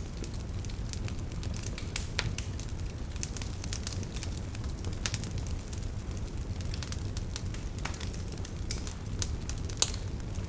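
Wood campfire burning, with scattered sharp crackles and pops of the firewood over a steady low rumble; one louder pop comes near the end.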